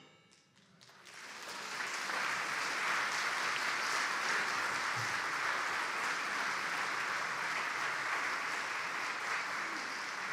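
Audience applauding after the band's final chord; the clapping starts about a second in, holds steady, and begins to die away near the end.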